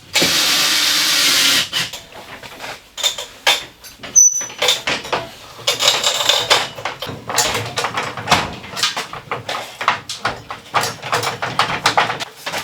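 A power tool runs for about a second and a half, then stops. Irregular knocks and clatter of hand building work follow, with one brief high squeak about four seconds in.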